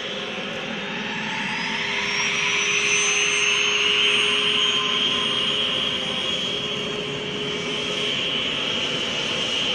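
Airplane engines running at high power, a steady rush with a high whine that rises in pitch; the sound swells to its loudest about four seconds in, then holds.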